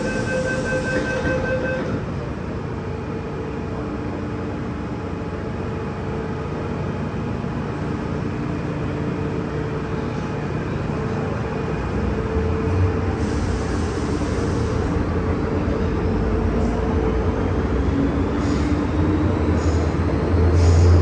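MTR M-Train metro train running, heard on board. A repeated beeping tone sounds for the first two seconds, then the steady running noise carries a motor whine, and a low rumble grows louder through the second half.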